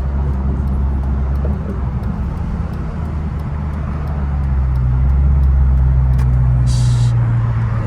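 Straight-piped Chrysler 300's Hemi V8 exhaust heard from inside the car while driving: a deep steady drone that grows louder and rises slightly in pitch about halfway through as the car accelerates. A brief hiss near the end.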